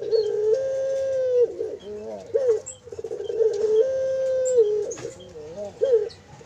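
Young puter (ringneck dove) chick, about 20 days old, calling with coo-like cries. Twice, a few short wavering notes lead into one long held note that steps up in pitch and back down. Faint high chirps from other small birds can be heard behind it.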